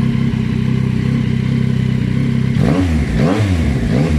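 Yamaha Tracer 9 GT's 890 cc crossplane inline-three idling through a newly fitted Akrapovič-copy slip-on exhaust, then blipped twice, rising and falling in pitch, about two and a half seconds in. The exhaust is still loud but tolerable.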